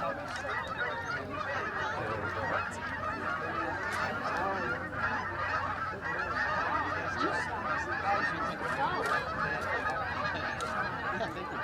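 Huge flock of migrating wild geese calling all at once: a dense, continuous chorus of overlapping honks.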